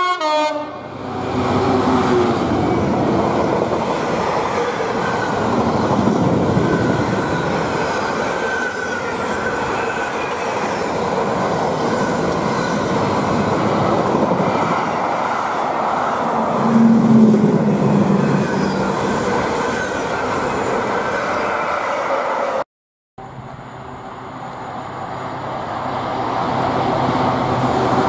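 Container freight train passing through, its wagons rolling over the rails in a steady loud rumble and rattle, opening on the tail of a train horn. After a brief cut about three quarters of the way through, another diesel-hauled container train passes, growing louder as it nears.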